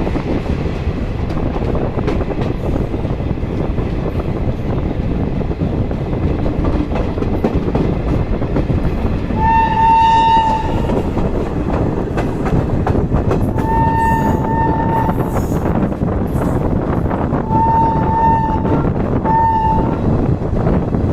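Passenger train running on the track with a steady rumble and clatter. A train horn sounds one long blast about halfway through, then several shorter blasts near the end.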